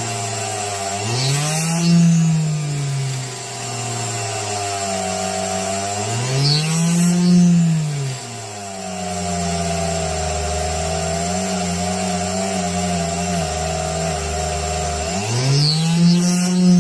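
Small electric drill with a diamond bit running steadily while drilling a hole through fused glass under water. Its motor whine rises and falls in pitch three times.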